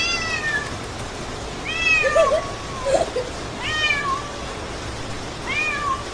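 Domestic cat meowing four times, each call falling in pitch.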